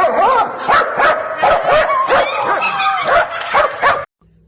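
Dog barking and yipping in quick succession, about three barks a second, the pitch bending up and down within each bark; the barking cuts off abruptly about four seconds in.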